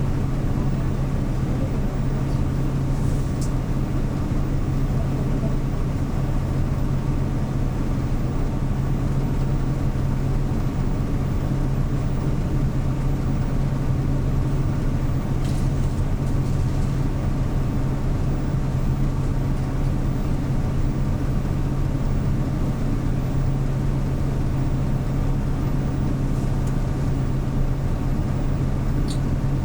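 The CNG engine of a 2013 Hyundai New Super Aero City city bus running at a constant speed, heard from inside the bus as a steady low hum that holds one pitch throughout. A few faint clicks sound over it.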